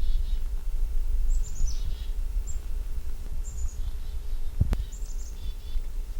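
Chickadee calling: several short runs of high notes that drop in pitch. A steady low rumble runs underneath, with a sharp knock about four and a half seconds in.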